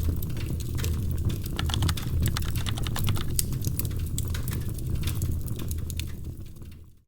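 Wood fire crackling in a fireplace: a steady low rumble of flames with a dense scatter of sharp pops and snaps, fading out in the last second.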